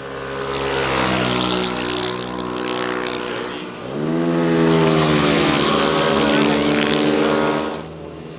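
Motorcycle engines passing close by. One builds early on, then a louder one revs up sharply in pitch about four seconds in and holds high before fading just before the end.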